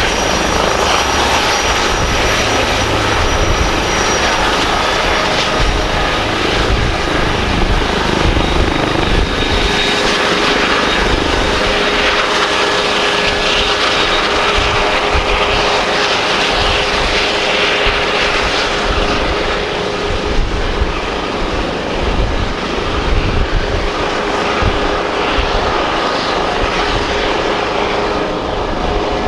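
Helicopter running close by: steady rotor and engine noise with a few held tones above it, dipping slightly in level about two-thirds of the way through.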